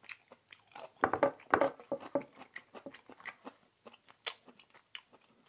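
Close-miked chewing of food, with wet mouth smacks and clicks, loudest and busiest about a second in.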